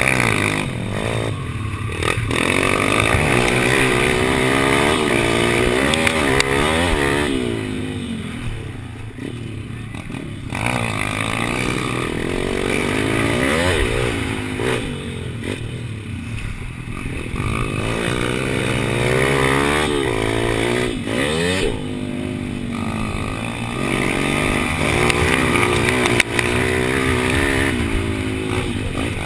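Pit-bike engine at racing speed, revving up through the gears and falling off again and again as the throttle is opened and shut for corners.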